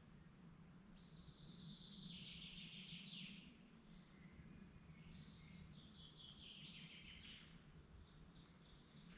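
Faint songbird song: three phrases of quick repeated notes stepping down in pitch, starting about a second in, around five seconds in and near the end, over a faint steady low hum.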